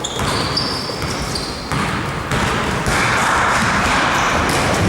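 Basketball game in a gym: a ball bouncing on the court, with short high squeaks.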